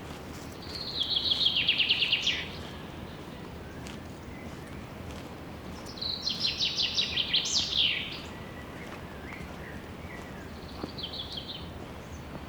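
A songbird singing a fast trill three times. Two loud phrases come a few seconds apart, each about a second and a half long and dropping a little in pitch; a shorter, faint one comes near the end. A steady background hiss runs underneath.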